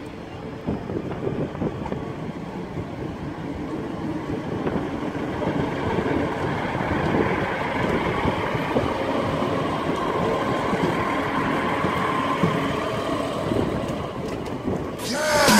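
Northern Class 156 Sprinter diesel multiple unit running past: under-floor diesel engines and wheels on the rails, growing louder as the train draws near, then a steady rumble as the carriages go by. At the very end an electronic music outro swells in.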